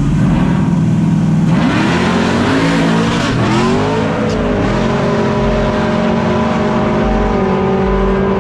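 Full-size pickup truck engines running steadily, then about a second and a half in a loud launch as the trucks accelerate hard, the engine pitch climbing and dropping back as they shift through gears.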